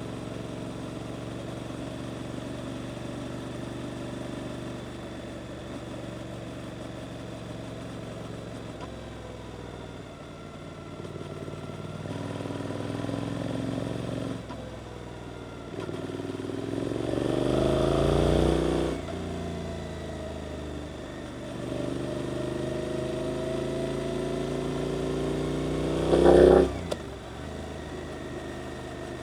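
Suzuki GSX-8S parallel-twin engine through an Arrow aftermarket exhaust, running under way. It rises in pitch twice as the bike accelerates, first around the middle and again later on, then gives a short loud bark near the end before settling back to a steady lower note.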